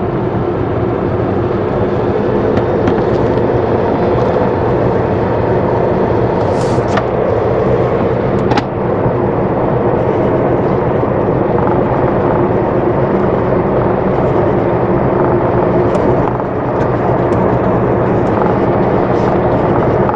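Steady engine drone and road noise of a vehicle driving, with two brief dips about eight and sixteen seconds in.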